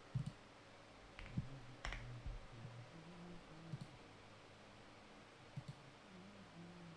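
A handful of sharp single clicks spread irregularly a second or two apart, like buttons or keys being pressed, over a faint low hum.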